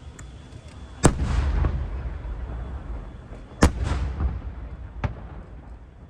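Aerial fireworks shells bursting overhead. Two loud booms about a second and three and a half seconds in, and a smaller one near the end, each followed by a rolling low rumble.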